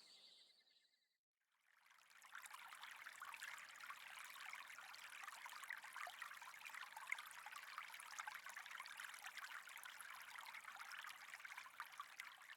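Faint running water, like a small stream trickling, coming in about two seconds in after a moment of silence.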